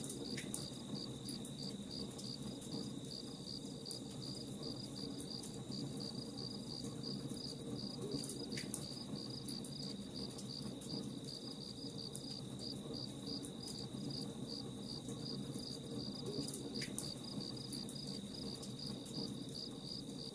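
Crickets chirping in a steady pulsing rhythm, about three chirps a second, over the crackle and low rush of a campfire.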